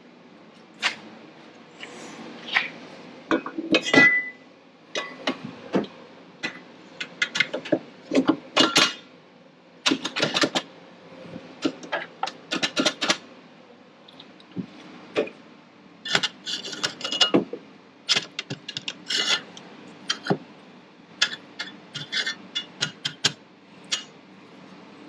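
Irregular metal clinks and clanks with short ringing as a metal strut tower brace and hand tools are handled and test-fitted in an engine bay.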